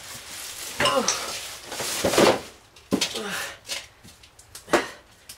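Short vocal outbursts from a person's voice, then several sharp knocks or clatters, the loudest about three-quarters of the way through.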